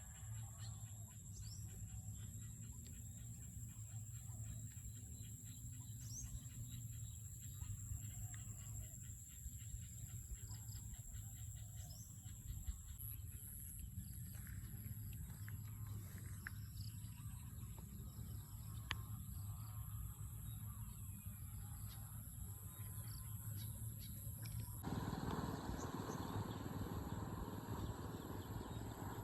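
Outdoor field ambience: insects keep up a steady, high-pitched drone on two pitches, with a few short bird chirps over a low rumble of wind on the microphone. About 25 seconds in, the background changes abruptly to a louder, noisier wash.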